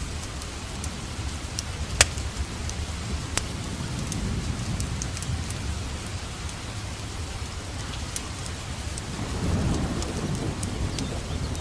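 Steady rain with thunder rumbling low underneath, swelling about nine seconds in. Sharp crackles and pops from a wood fire in a fireplace are scattered over it, the loudest about two seconds in.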